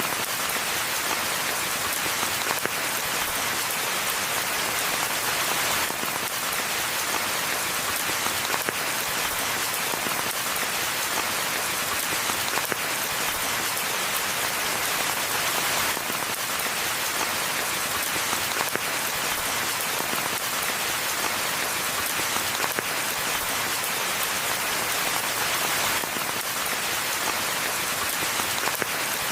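Steady rain falling: an even, dense hiss of drops with many small, sharp drop impacts, holding the same level throughout.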